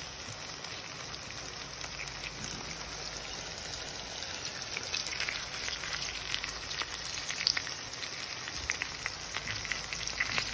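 Okra and spice masala sizzling in a hot pan, a steady hiss with scattered crackling pops that grow more frequent about halfway through.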